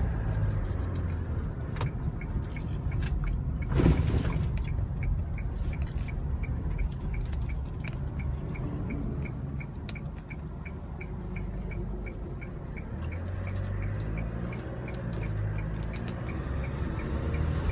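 Cab interior of a small truck on the move: steady low engine and road drone. A turn-signal indicator ticks evenly about two and a half times a second from about two seconds in until near the end, and there is one loud knock about four seconds in.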